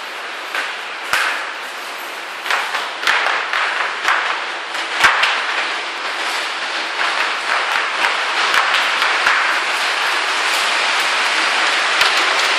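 Large hailstones, as big as ping-pong balls, hitting hard surfaces. Separate sharp cracks come first and build steadily into a dense, louder clatter of hail and rain.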